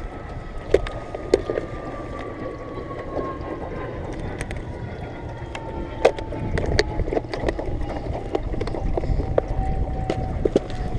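Small jon-boat motor running, its whine slowly falling in pitch, over low rumble and water noise, with scattered sharp clicks and knocks.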